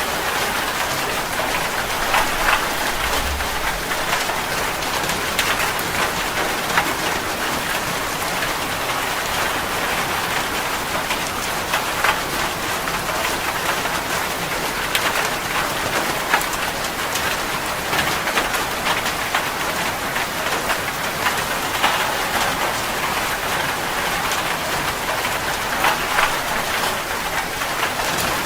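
Heavy rain falling on a metal roof: a steady rushing hiss scattered with many sharp individual drop ticks.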